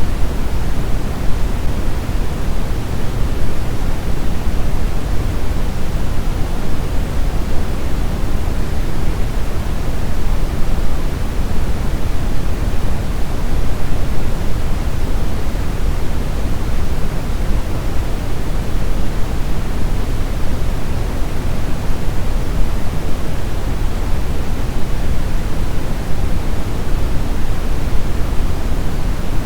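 Brown noise: a steady, even rumbling hiss with most of its energy in the lows, unchanging throughout.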